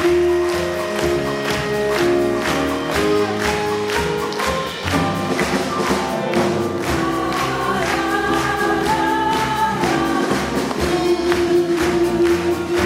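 Jazz vocal ensemble singing live in held, moving chords over a band with a steady drum beat.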